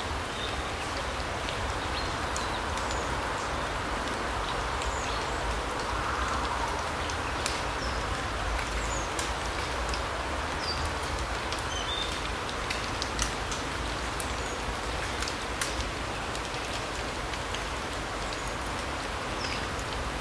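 Forest ambience: a steady rushing hiss with a low rumble beneath it, short high bird calls every second or two, and scattered light ticks.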